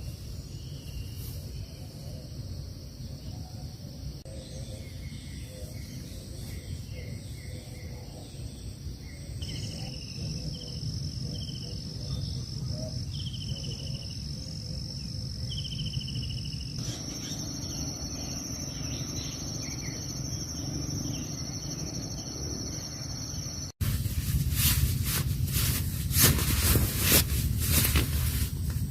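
Forest ambience: a steady high insect drone with short bird chirps over a low outdoor rumble. Near the end the sound cuts suddenly to something louder, a dense run of sharp taps and rustles.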